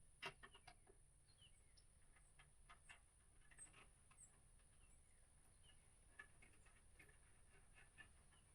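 Near silence, broken by faint scattered clicks and small taps, the loudest about a quarter second in, with a few faint bird chirps.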